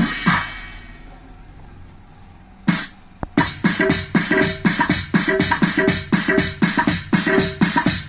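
Electronic drum and percussion sounds: a few hits, a quieter stretch of about two seconds, then a steady rhythm of about three hits a second, each hit dropping quickly in pitch.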